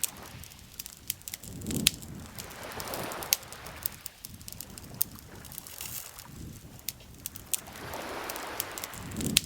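Campfire crackling with scattered sharp pops, over small waves lapping at the lake shore in slow swells, one around two seconds in and another near the end.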